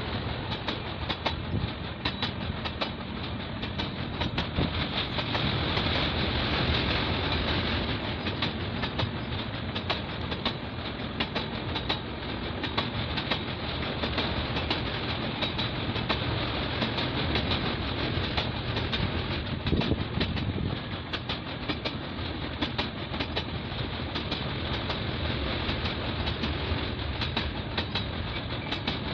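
Paschim Express passenger coaches rolling over a girder bridge: a steady rumble of wheels on rails, with a continual clatter of clicks as the wheels pass the rail joints.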